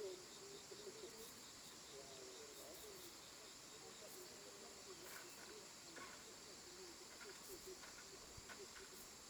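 Faint tropical forest ambience: a steady high insect drone with soft, warbling bird calls and a few short chirps.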